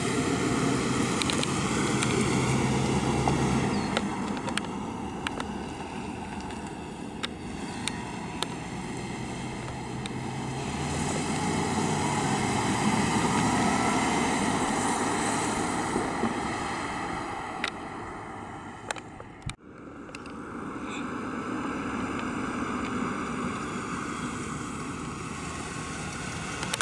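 The 1976 Chevrolet Chevelle Malibu's 350 cubic-inch V8 running as the car is driven, mixed with steady road and wind noise. The sound swells and eases slowly, and breaks off abruptly about twenty seconds in before picking up again.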